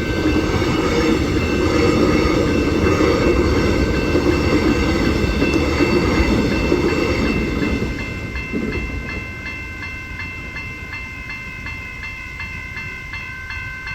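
An X'Trapolis 100 electric train runs through a level crossing, its rumble dying away about eight seconds in. Throughout, the crossing's General Signal warning bells keep ringing with a steady, regular strike.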